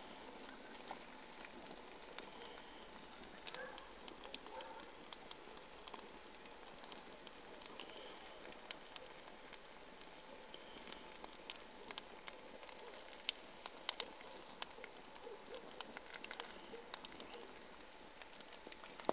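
Bonfire crackling: a steady low rush of burning with many irregular sharp pops and snaps, the loudest pop about fourteen seconds in.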